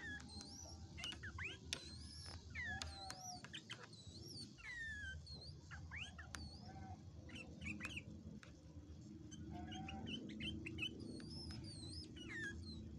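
Sooty-headed bulbul (kutilang) singing on and on: rapid chirps and whistled notes that slide up and down in pitch, one after another, over a steady low hum.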